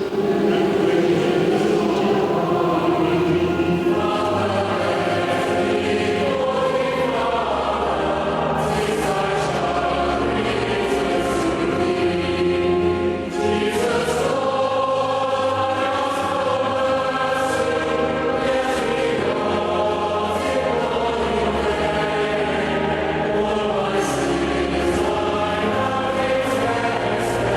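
A hymn sung by many voices together, with steady low held notes underneath.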